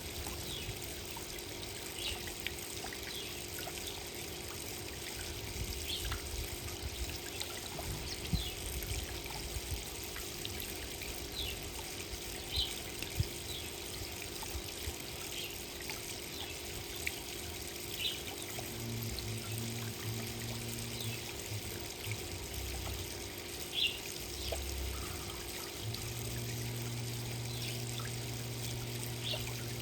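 Water trickling steadily, with short, sharp chirps or drips scattered throughout. A low hum comes in briefly about two-thirds of the way through and again near the end.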